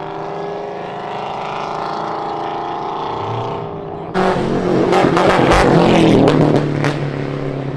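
Car engine running with a slowly rising pitch, then about four seconds in a sudden louder burst of rough noise with crackles as the car accelerates hard.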